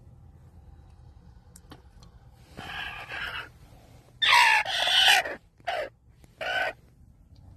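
Bantam rooster crowing: a quieter call about two and a half seconds in, then a loud crow whose pitch drops at the end, followed by two short notes.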